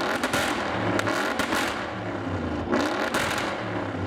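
Mercedes-AMG twin-turbo V8 accelerating hard, its pitch climbing and breaking at gear changes, with some exhaust crackle.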